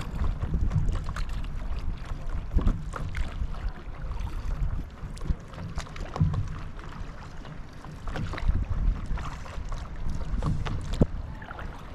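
Wind buffeting the microphone in a gusty low rumble, over water splashing and lapping in short, irregular splashes.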